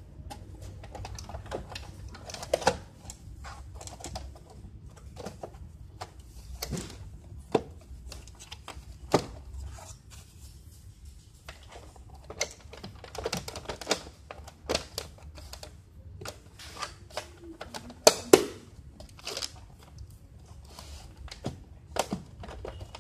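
Irregular plastic clicks and knocks as the casing cover of an APC 1100 UPS is handled and fitted back on, a few of them sharper and louder, with a faint low hum underneath.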